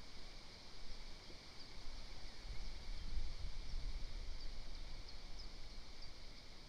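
Outdoor ambience: a low rumble that grows louder about two seconds in, with scattered faint, short, high chirps of distant small birds.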